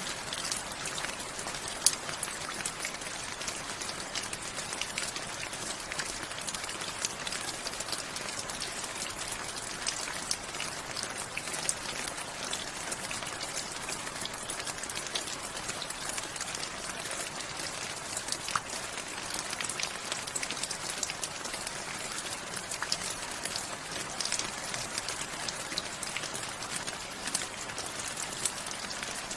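Steady rain falling, with many individual drops tapping close by, one sharper drop about two seconds in.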